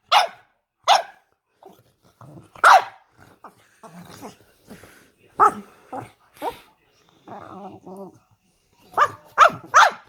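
Bully-breed dog squealing and yelping in short, sharp, falling calls, about nine of them, with a low grumble between calls a little after the middle and three quick yelps close together near the end.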